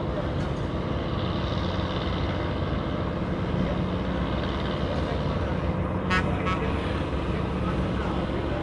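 Steady low drone of boat engines running, with a brief rattling burst of rapid clicks about six seconds in.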